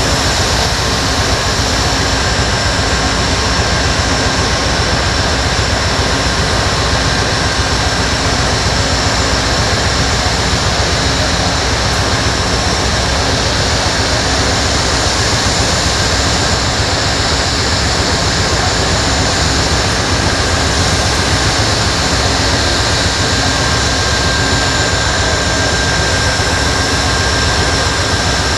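A train rolling past close by: a loud, steady rumble and hiss of wheels on rails that holds without a break, with a faint steady high whine over it.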